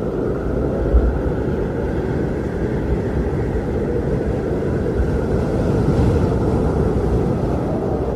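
Strong wind blowing: a steady, deep rushing noise that swells and eases in gusts, rising a little about six seconds in.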